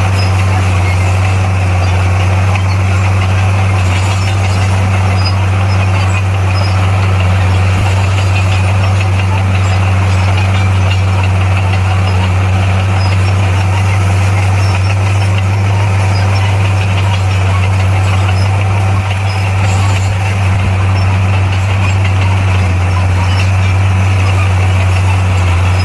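Diesel engine of heavy earthmoving equipment running at a steady speed: a deep, constant hum with no revving.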